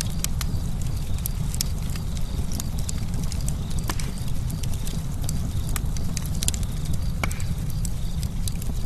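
Campfire burning, the wood crackling with irregular sharp pops over a steady low rumble of flame.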